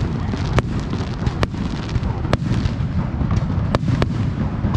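Aerial fireworks bursting: about five sharp cracks spread over a few seconds, on top of a continuous low rumble of booms.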